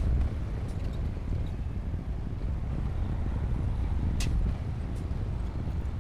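Komatsu D60P bulldozer's diesel engine running with a steady low rumble, with two sharp clanks, one at the very start and one about four seconds in.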